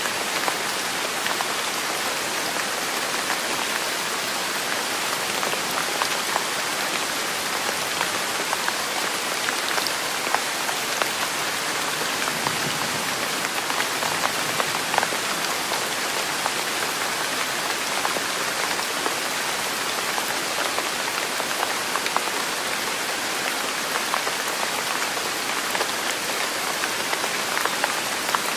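Steady rain falling on a surface, a constant hiss dotted with many small, sharp drop taps.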